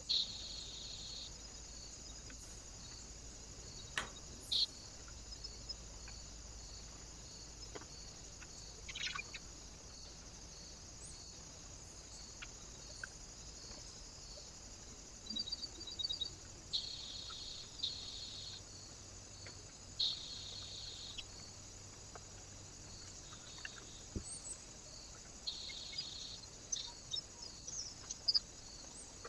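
Small birds at a feeder: short, high chirps now and then and a few sharp taps, over a steady high hiss from the trail camera's microphone.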